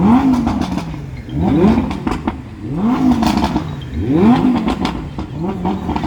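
Performance car engines revved while parked, in repeated quick throttle blips: about one a second, each pitch rising sharply and then falling back.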